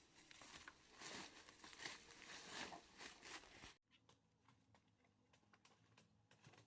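Faint rustling and crinkling with small clicks, cutting off abruptly about four seconds in to near silence with a few faint ticks.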